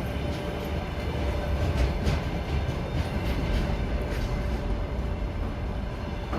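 A railway train running past with a steady rumble, its wheels clicking irregularly over the rail joints.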